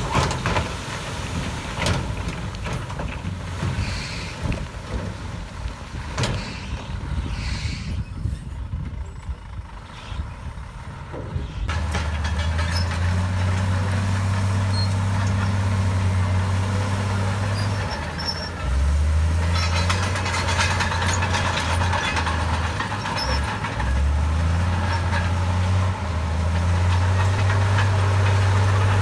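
Heavy diesel earthmoving machinery working: irregular noise with scattered knocks at first, then from about twelve seconds in a steady low engine drone that shifts pitch a few times.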